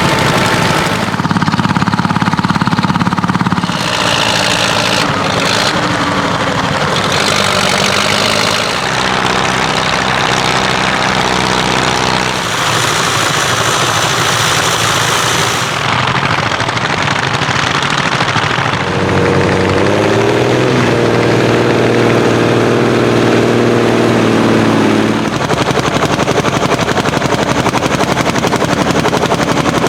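Old tractor engines working hard under plough load, heard in a run of short clips that change abruptly several times. The rapid, even popping beat is typical of single-cylinder hot-bulb (testa calda) diesels, and one engine revs up about two-thirds of the way through.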